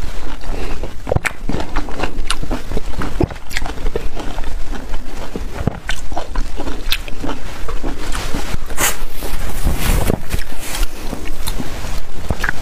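Close-miked biting and chewing of a whole peeled orange: many irregular wet clicks and crackles of juicy fruit being bitten and chewed.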